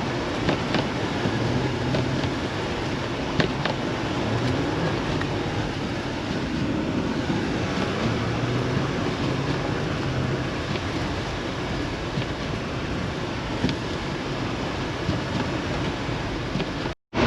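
Car driving, heard from inside: a steady rumble of engine and road noise, with the engine note wavering a little and a couple of sharp clicks. The sound cuts out briefly near the end.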